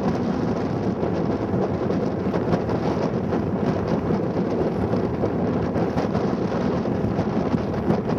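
Strong wind buffeting the camera microphone: a steady, loud rumbling rush with no breaks.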